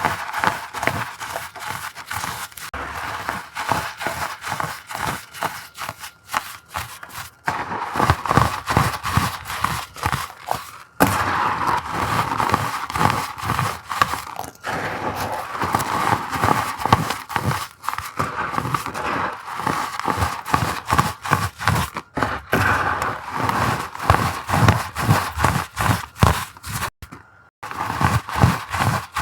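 Pebbles and powder of crushed blocks being squeezed and worked, giving a dense run of crunching and crackling, with a brief pause about eleven seconds in and another near the end.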